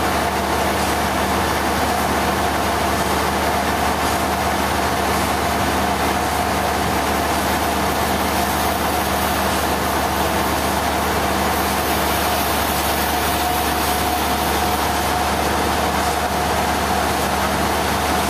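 Sawmill machinery running steadily, a constant drone that does not change or break.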